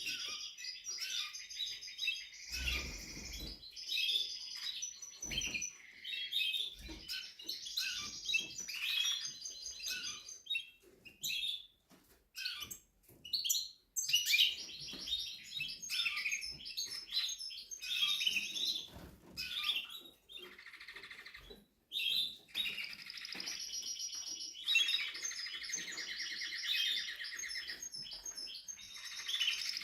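Spanish Timbrado canary singing in long phrases of fast trills and chirps, with a short pause about twelve seconds in.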